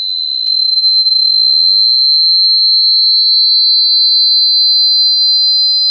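Two high-pitched electronic sine tones sounding together, one held steady and the other slowly rising in pitch, with a brief click about half a second in: a designed ear-ringing effect meant to convey the discomfort of the condition's noise sensitivity.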